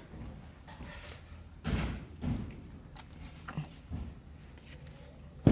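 A few scattered dull knocks and thuds, then one sharp, loud knock near the end.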